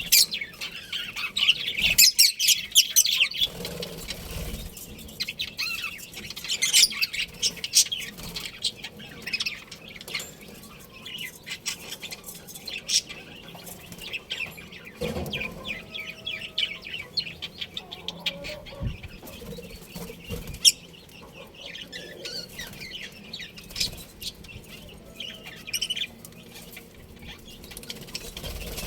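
Budgerigars chirping and chattering: quick runs of short, high chirps in clusters every few seconds.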